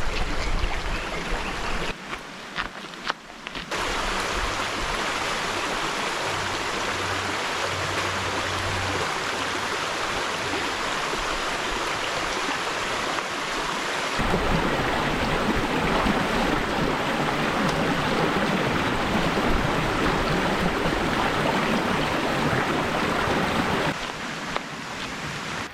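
Rushing stream water, a steady hiss in a series of cut clips, louder and fuller from about halfway in.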